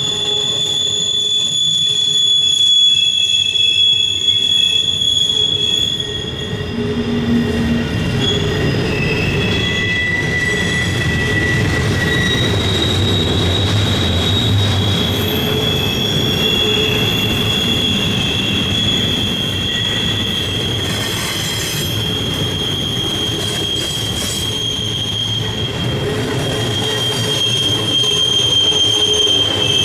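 Freight cars of a long CSX intermodal train rolling past, with steady wheel rumble and the high squeal of wheel flanges in several held tones that come and go, one persisting throughout.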